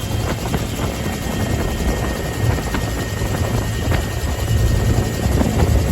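Bell UH-1H Huey helicopter running, its two-blade main rotor and turbine heard from aboard as a steady, loud low rumble. It grows a little louder near the end.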